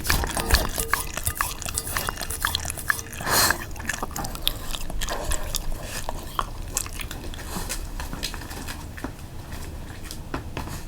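A dog chewing, with quick irregular crunching clicks that thin out and grow quieter toward the end.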